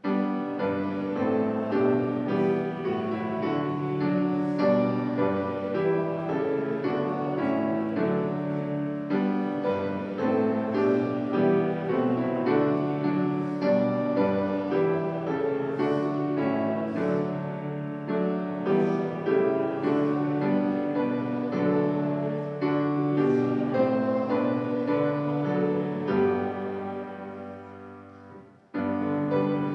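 Piano playing a hymn tune in full chords. Near the end it breaks off briefly, then starts again.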